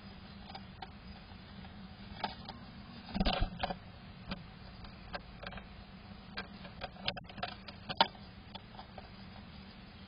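A great tit moving about inside a wooden nest box: scattered taps and scrapes of the bird on the wood, with a burst of scuffling and knocks about three seconds in and a sharp tap near the end.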